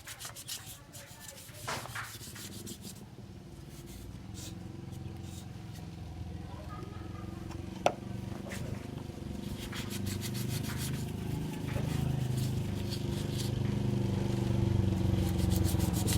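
Hand scrubbing or rubbing on motorcycle engine parts, in quick repeated strokes. A low steady hum builds gradually louder through the second half, and a single sharp click sounds about halfway through.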